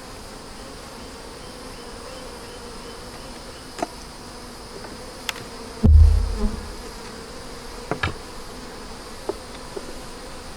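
Honey bees buzzing in a steady hum around the opened hive. A few sharp clicks come through it, and a dull low thump about six seconds in.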